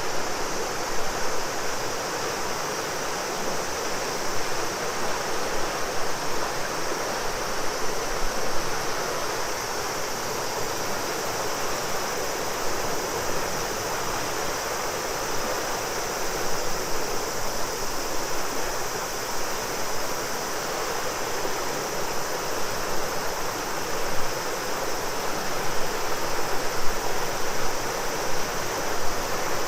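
River water flowing steadily, with a chorus of cicadas keeping up an even high drone over it.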